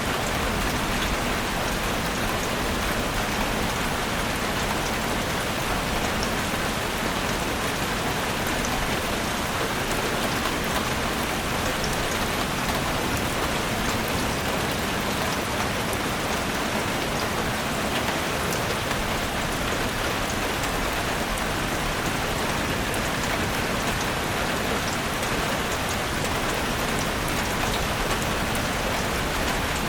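Steady rain falling in a forest: a dense, even hiss of rain with many fine drop ticks, unchanging throughout.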